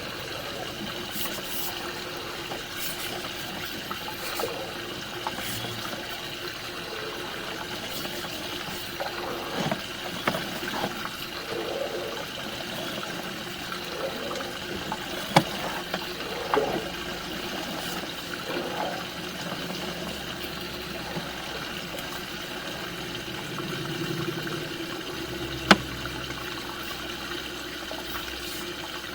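Water running freely through a sewer main into the city line, a steady trickling rush that shows the line is clear of its root blockage, with two sharp clicks, one about halfway through and one near the end.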